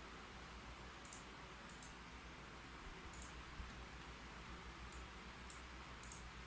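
A few scattered keyboard key clicks, about six sharp, light taps a second or so apart, with pauses between them, over a faint steady hiss.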